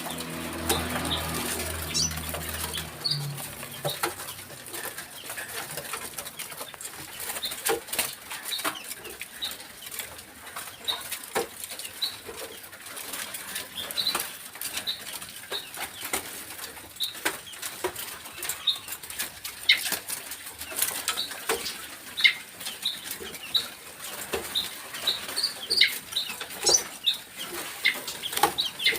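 Decoy birds fluttering their wings and giving many short, scattered chirps and clicks.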